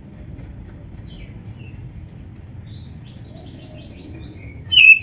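Oriental magpie-robin (kacer) singing: faint short chirps and quavering trills, then a loud, sharp whistled phrase near the end.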